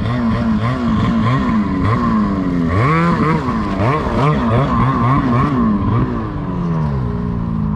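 Small vehicle engines revving up and down in quick, repeated swells.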